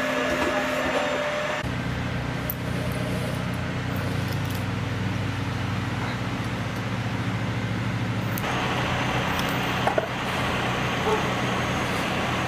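A heavy machine's engine running steadily with a low hum. The sound shifts abruptly about one and a half seconds in and again about eight seconds in.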